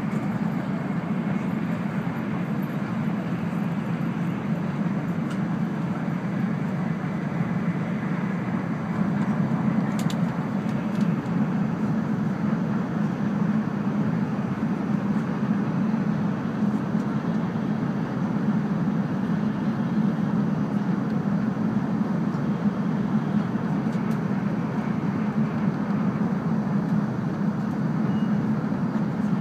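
Cabin running noise of a JR East E2 series Shinkansen at speed, heard inside the passenger car: a steady low rumble, a little louder from about nine seconds in.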